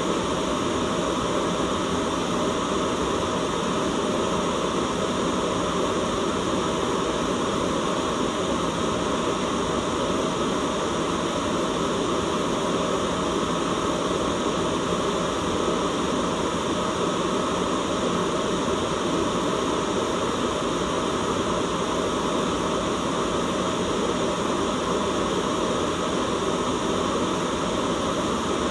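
Continuous white noise: an even, steady hiss-like rush that never changes in level, fuller in the lower middle than in the highs.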